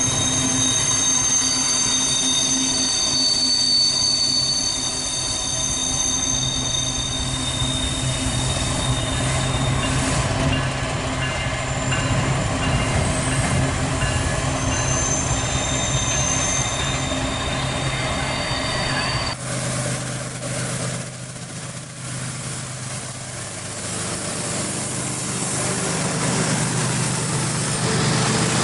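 Freight train running by with its steel wheels squealing in high, sustained tones over the steady drone of the diesel locomotive. About two-thirds of the way through the squeal stops abruptly and the sound drops to a quieter rumble that builds again toward the end.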